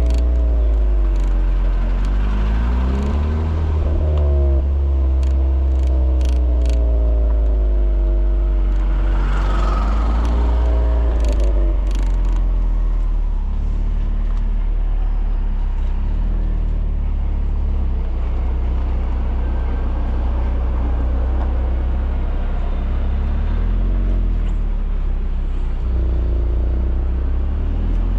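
Volkswagen Polo GTI's 1.8 TSI turbocharged four-cylinder engine and exhaust on the move. Its pitch drops and climbs several times in the first ten seconds, then settles lower and steadier, over a heavy low rumble.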